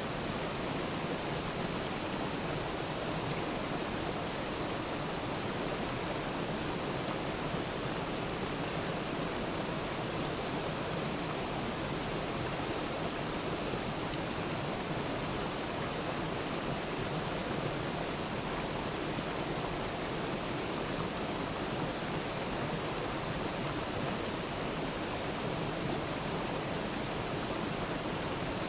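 Waterfall: a steady, even rush of falling water that doesn't change.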